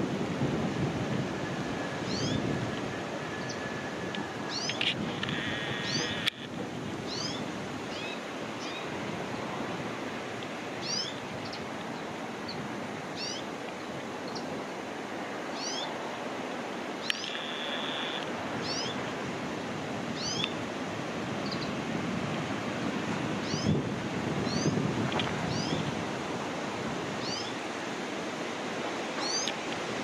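Small birds calling over and over with short, high, rising chirps, and twice a louder drawn-out call, over a steady background hiss.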